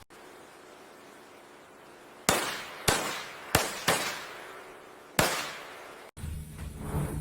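Five sharp bangs at uneven intervals, each dying away in a short ringing tail, over a faint steady hiss.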